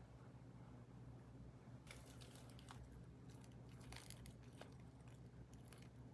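Slime being handled, making faint, scattered crackling clicks that begin about two seconds in, over a low steady hum.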